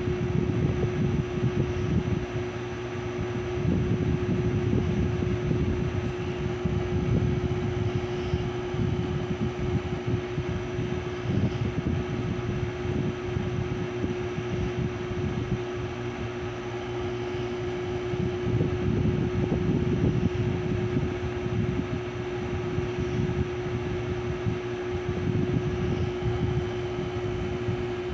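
Small Mabuhay Star ceiling fan running with a steady hum. Under the hum, a low rumble of moving air swells and eases every few seconds.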